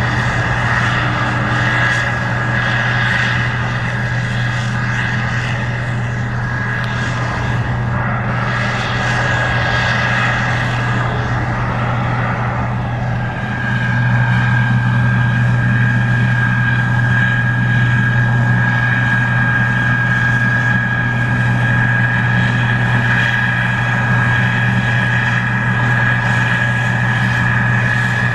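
Case IH 2144 Axial Flow combine running while harvesting corn: a steady heavy engine drone with a constant high whine over it, getting a little louder about halfway through.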